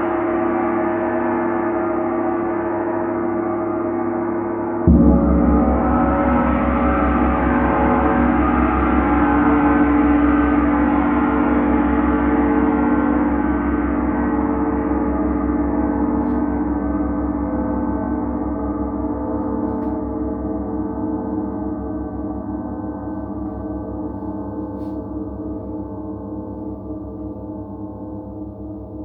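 Long, dense metallic ringing of a large struck metal percussion instrument. About five seconds in it is struck again with a deep low hit, and the ring then slowly dies away, growing duller as it fades.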